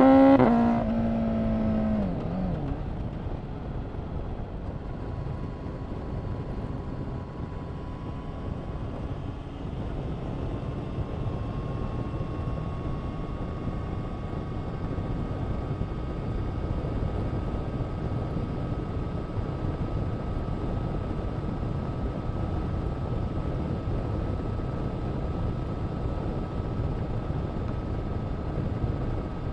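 Honda CBR1000RR-R SP Fireblade's inline-four with an Akrapovic exhaust at the top of a hard rev, held briefly and then dropping away about two seconds in. After that there is a steady low noise with a faint, high, steady whine.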